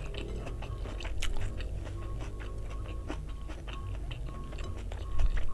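Close-miked chewing of squid and rice, wet and full of small sharp clicks, with a louder burst near the end.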